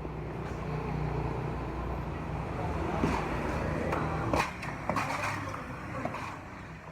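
A motor running with a steady low hum, which fades after about four seconds; a few sharp clicks and knocks come in the second half.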